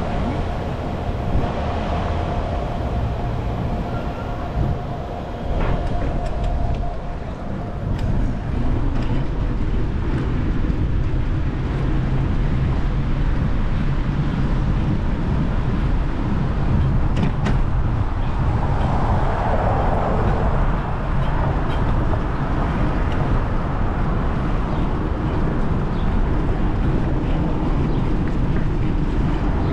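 Steady rumble of wind and road noise on a camera carried on a moving bicycle in city traffic, with a faint steady tone for the first several seconds and a few light clicks.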